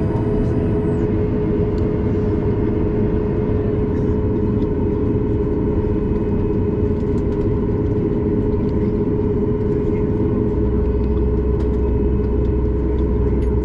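Steady cabin noise inside a Boeing 737 MAX 8 on the ground: the CFM LEAP-1B engines and cabin air running at taxi power, a constant rumble with a steady hum. A deeper low drone comes in about ten seconds in.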